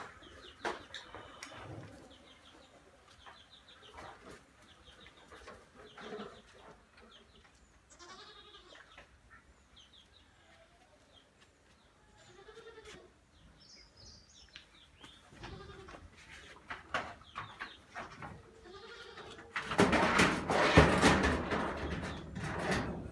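Farmyard animals calling: scattered goat bleats among chickens clucking. Near the end there is a loud, noisy stretch lasting about three seconds.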